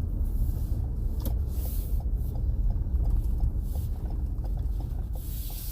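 A car driving: steady low engine and road rumble, with faint regular ticks and a few brief hissing swishes.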